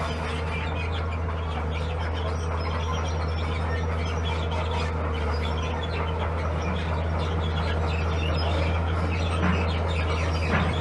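Bulldozer's diesel engine running steadily with a constant low drone.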